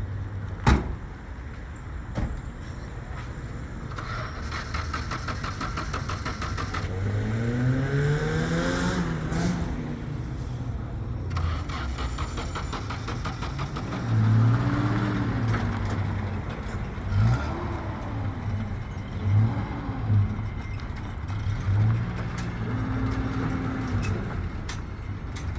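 A vehicle engine running and revving up and down several times, each rise in pitch falling back within a second or two. A sharp click comes about a second in, and a fast rattle can be heard a few seconds in.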